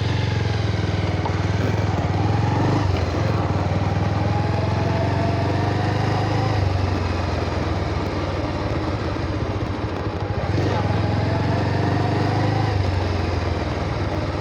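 Motorcycle engine running under way, with the engine note shifting a few times as the throttle or gear changes.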